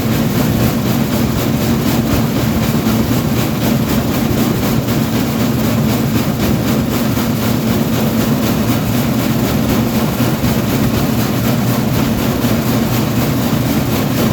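Train running steadily: a continuous loud rumble and rattle with a steady low engine hum that doesn't change in pitch or level.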